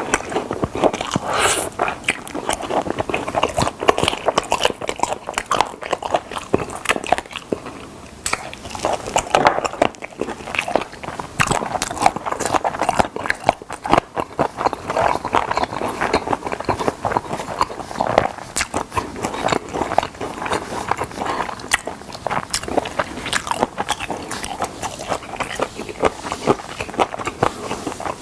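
Close-up crunching and chewing of fried chicken drumsticks: crisp bites and dense crackling of the coating, with wet chewing in between, continuing throughout.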